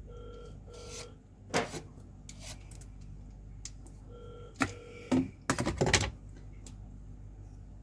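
Two pairs of short electronic beeps, the pairs about four seconds apart, among a few sharp knocks and a brief burst of clatter near the middle.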